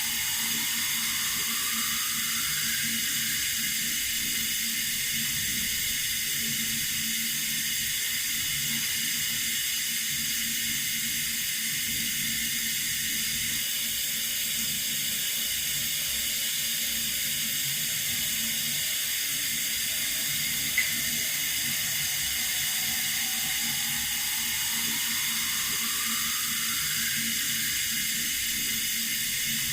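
Water running steadily from a tap, an even hiss. A faint rising tone sounds near the start and again near the end, and a single short click comes about two-thirds of the way through.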